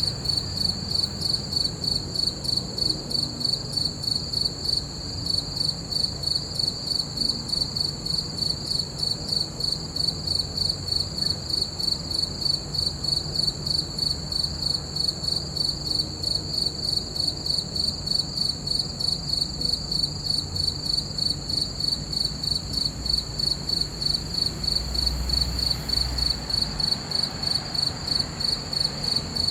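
Crickets chirping steadily in an even rhythm, about three chirps a second, over a faint low rumble.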